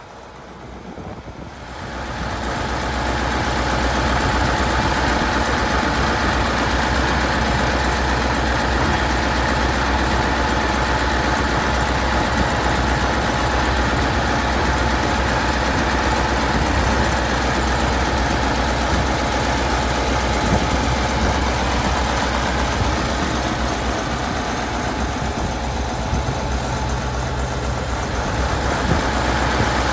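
Massey Ferguson V8 diesel tractor engine running steadily. It grows louder over the first few seconds, then holds a constant drone.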